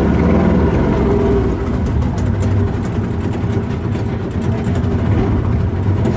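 A glass-bottom tour boat's engine running steadily at a low, even pitch.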